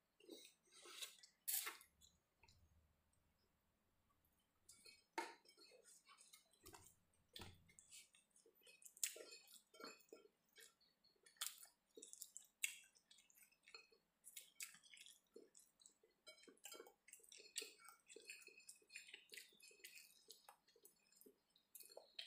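Faint, irregular wet clicks and smacks of a person chewing food close to the microphone. Near silence for a couple of seconds early on, then the chewing clicks go on steadily.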